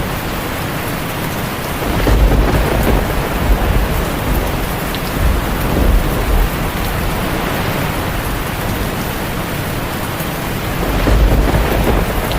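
Heavy rain falling steadily on a tin roof, with deep rolls of thunder building about two seconds in and again near the end.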